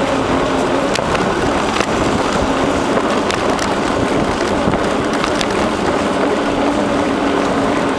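Steady rushing noise of a bicycle ride: wind buffeting the microphone and tyres rolling over the trail, with a few sharp rattles.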